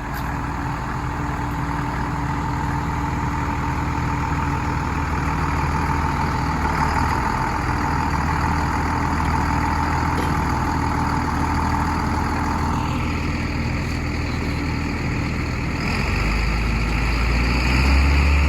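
Heavy engines of a tractor and a stuck container truck running steadily as the tractor tows the truck free. A deeper engine note grows louder near the end.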